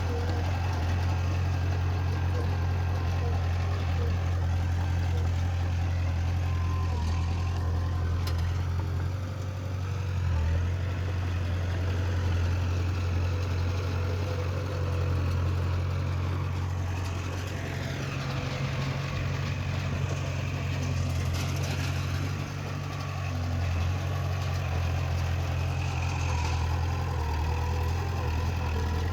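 Heavy diesel engine of earthmoving machinery running steadily with a low drone, its loudness dipping briefly a few times.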